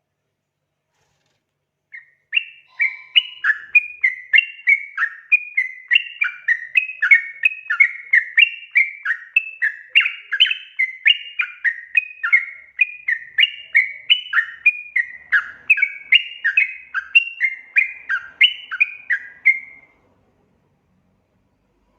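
Yellow-vented bulbul (trucukan) song: a long run of quick, bubbly chattering notes, about two or three a second, starting about two seconds in and stopping shortly before the end.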